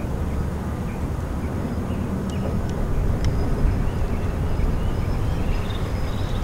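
Low, steady rumble of a distant diesel-hauled passenger train running along the shore, growing a little louder partway through, with a few faint high chirps over it.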